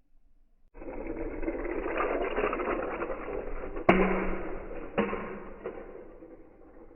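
Slowed-down sound of 1/64-scale diecast toy cars: a noisy rattling rumble starts suddenly, then two sharp crash impacts about a second apart, the first the louder, before it fades away.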